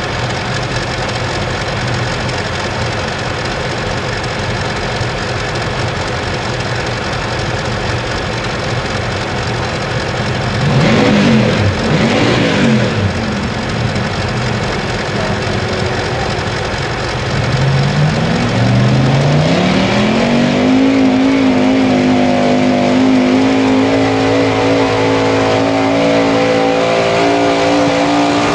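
Pulling truck's engine running at a low steady speed, revved up and back down once about eleven seconds in. From about eighteen seconds in it climbs in pitch to high revs and holds there at full throttle, as on a pull down the track.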